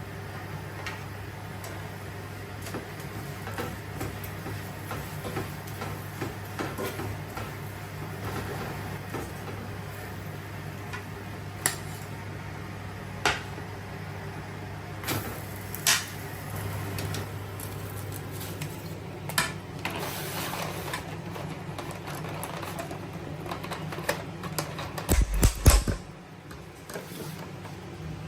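Kitchen handling sounds over a steady low hum: scattered knocks and clicks of things being set down and cupboards or doors moved, with a cluster of louder knocks and a heavy thump near the end.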